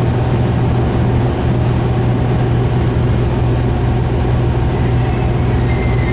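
Diesel railcar running with a steady low engine hum; near the end a high wheel squeal starts to come in.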